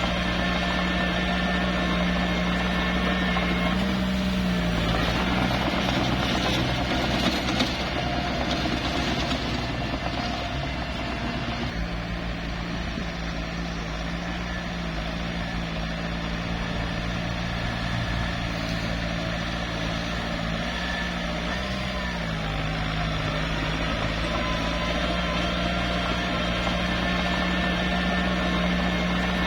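Small bulldozer's diesel engine running steadily as it works dirt, its pitch rising briefly about four seconds in and again about twenty-two seconds in. A rougher, noisier stretch rides over the engine from about four to twelve seconds in.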